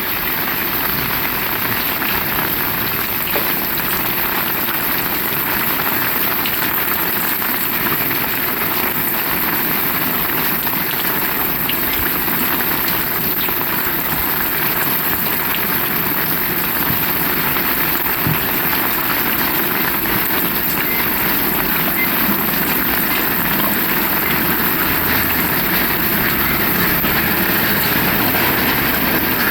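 Steady heavy rain falling, with a low rumble building in the last third.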